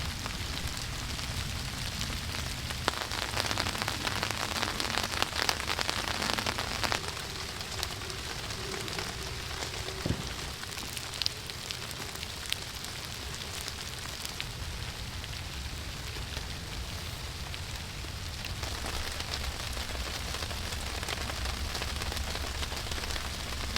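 Light rain pattering steadily on a tarp overhead, heavier for a few seconds near the start, with a few scattered drip ticks.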